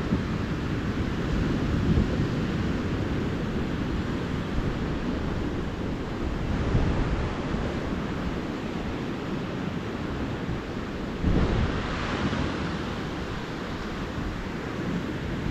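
Ocean surf washing steadily onto the beach, with one wave breaking louder about eleven seconds in.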